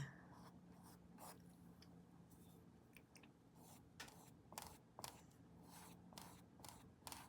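Faint, irregular scratchy strokes of paint being applied to a painting surface, roughly one or two a second, over a low steady room hum.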